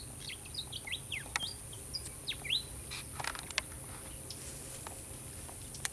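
Small birds chirping in short rising and falling calls through the first half, followed by a few sharp clicks, over a steady high hiss.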